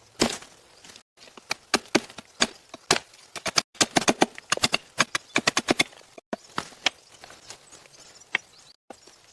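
Irregular sharp knocks and cracks, some in quick runs of several a second, broken off abruptly a few times.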